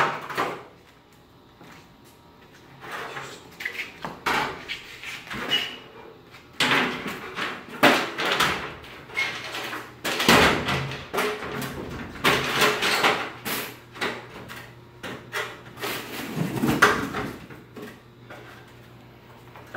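Irregular clunks, knocks and rattles of ladders being moved and set up, with a sharp knock at the very start.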